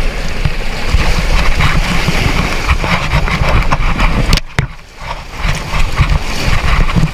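Rushing river rapids around the raft, with wind buffeting the microphone in a heavy, gusty rumble. The sound drops away sharply for about half a second past the middle, then returns.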